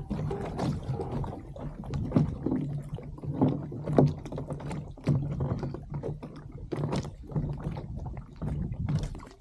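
Water slapping and gurgling against a drifting kayak's hull, with irregular knocks and splashes.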